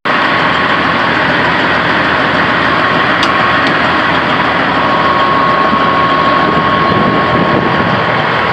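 Diesel engine of a Freightliner Cascadia semi truck idling with the hood open: a steady, loud running noise with a thin, steady whine over it that grows clearer about halfway through.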